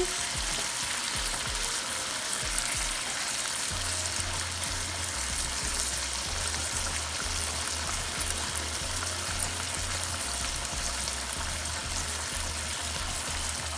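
Chicken pieces with fried onions and water sizzling steadily in hot oil in a cooking pot.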